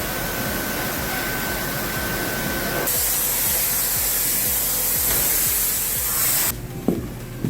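Sawmill machinery running with a loud, steady hissing rush. A thin steady whine sounds over it for the first three seconds, then the hiss turns brighter and cuts off abruptly near the end.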